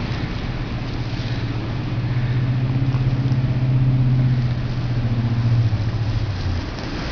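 An engine running with a steady low hum over a background of wind noise. It grows louder through the middle and drops away about six and a half seconds in.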